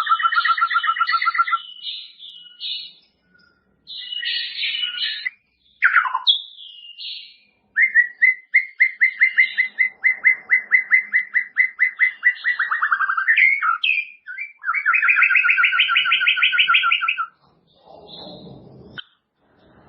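White-rumped shama (murai batu) singing a varied song of high chirps, a quick falling whistle and long trills of repeated notes.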